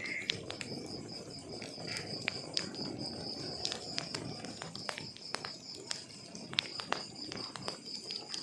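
Wood fire crackling in a fireplace: irregular sharp pops and snaps over a low rush of burning logs, with a steady high pulsing trill behind it.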